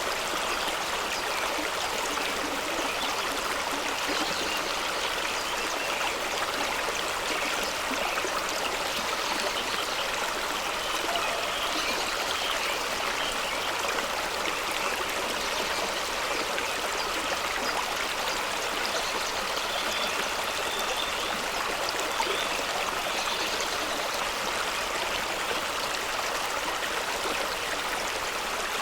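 Fast-flowing stream rushing over rocks at a small waterfall, a steady, even rush of water.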